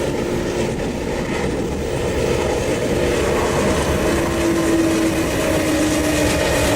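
Amtrak passenger train passing close by: a loud, steady rumble with faint whining tones that step slowly down in pitch.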